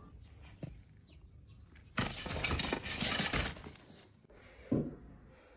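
A loud crash of something breaking, lasting about a second and a half, followed by a shorter thump near the end.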